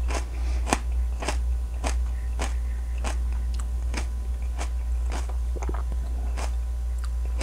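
A person chewing a piece of raw, thick-walled pepper (an F5 Odapeno, an Oda sweet pepper crossed with a hot pepper) close to the microphone: crisp, regular crunches a little under twice a second. A steady low hum runs underneath.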